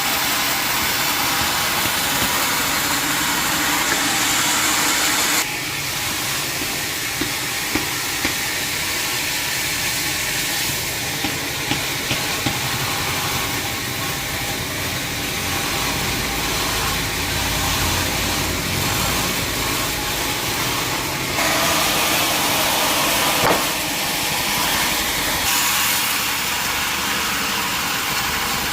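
Sawmill machinery running with a steady mechanical noise and hiss, changing abruptly in tone three times, with a few short knocks.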